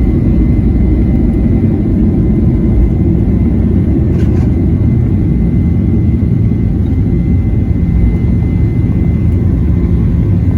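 Boeing 737-800 in flight: a steady, loud rumble of its CFM56-7B engines and airflow, with a thin steady high whine on top.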